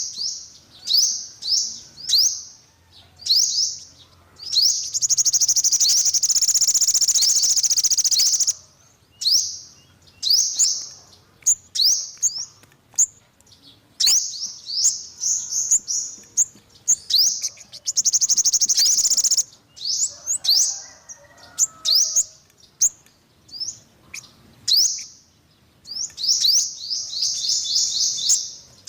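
Olive-backed (yellow-bellied) sunbird calling: a series of short, high, downslurred chirps about a second apart, broken three times by rapid trills a few seconds long.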